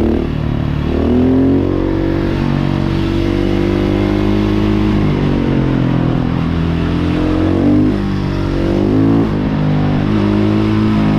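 Husqvarna 701 Supermoto's single-cylinder engine through a Remus Blackhawk exhaust, accelerating and changing gear, its pitch rising and dropping several times.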